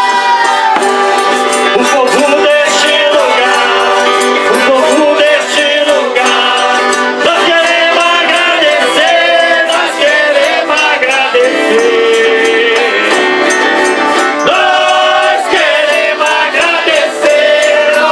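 Live Brazilian folk music: voices singing over an eight-bass button accordion's held chords, with jingling percussion throughout.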